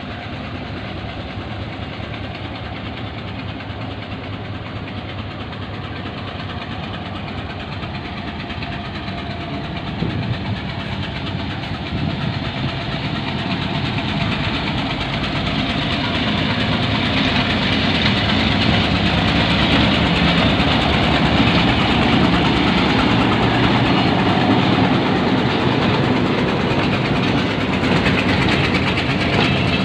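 PHA-20 diesel-electric locomotive's engine running as the train departs, steady at first, then growing louder over the second half.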